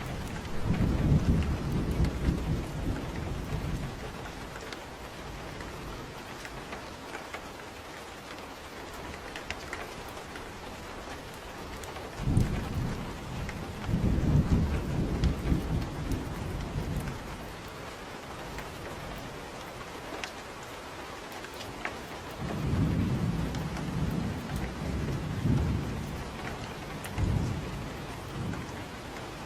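Steady rain falling, with low rolling thunder rumbling up three times: at the start, about twelve seconds in, and again about twenty-two seconds in.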